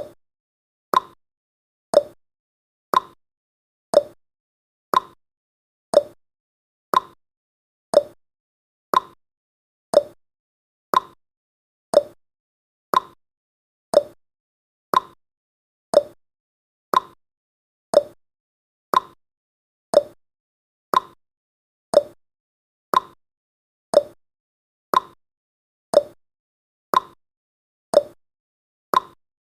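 Clock-style tick-tock sound effect of a countdown timer: one short, sharp tick every second, alternating between a higher and a lower tick, with silence in between.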